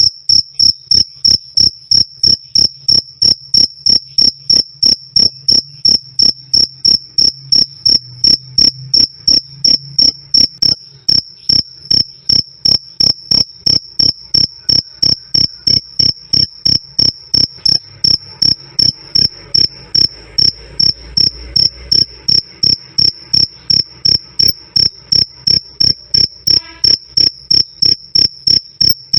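A cricket chirping loud and clear in an even, unbroken rhythm of about three high-pitched chirps a second.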